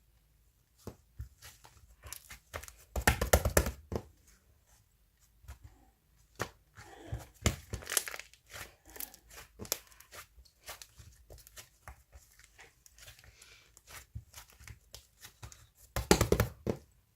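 Close-up handling noises: scattered clicks and taps with bursts of tearing and crinkling, loudest about three seconds in and again near the end.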